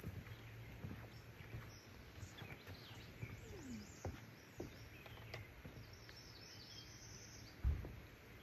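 Faint woodland birdsong: scattered short high chirps and trills from small birds. A few soft clicks, and a brief low thump near the end that is the loudest sound.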